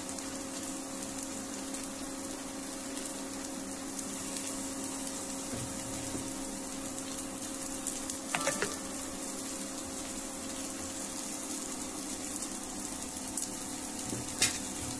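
Rava dosa batter sizzling in oil on a hot dosa pan, a steady high hiss, over a steady low hum. A short falling squeak comes about eight seconds in, and a sharp click near the end.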